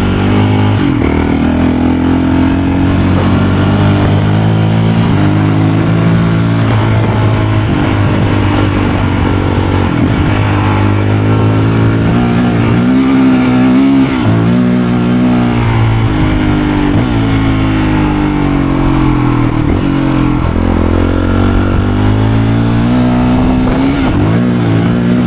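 Motorcycle engine running under way, its revs rising and falling again and again.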